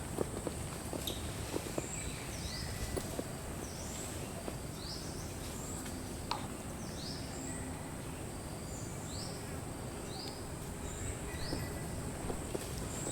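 A bird calling with short rising chirps, repeated one to two times a second, over a steady high-pitched insect drone.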